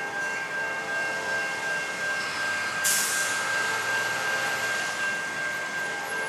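Norfolk Southern diesel locomotive horn sounding one long, steady chord from a distance as the intermodal train approaches the crossing. There is a short burst of hiss about three seconds in.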